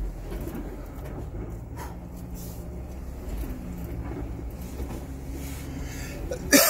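Jeep's engine running at a slow trail crawl, a steady low drone. Near the end, a brief, sudden loud noise.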